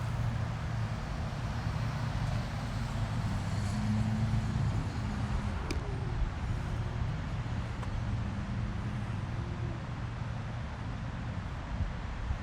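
Road traffic: passing cars' engines running with a steady low hum, and an engine note swelling slightly about four seconds in.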